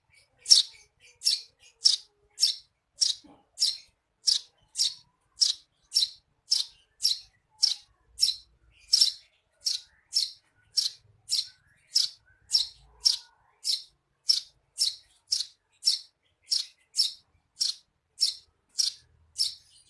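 Eurasian tree sparrow chirping: a single short, high chirp repeated at an even pace of about two a second, sparrow chatter of the kind used as a tutor recording for songbirds.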